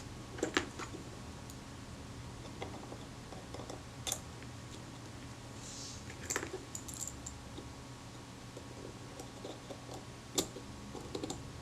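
Pronto leaf shutter being cocked and released by hand to test its action: a few small, sharp mechanical clicks spaced a few seconds apart, over a steady low hum.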